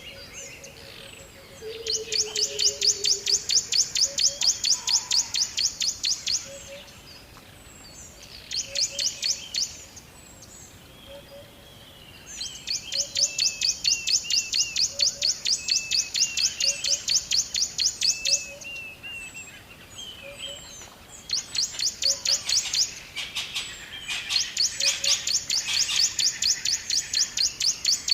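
Birdsong: a bird sings long rapid trills of sharp high notes, about ten a second, in bouts of a few seconds each. Softer chirps from other birds come between the bouts, and a faint low note repeats about once a second underneath.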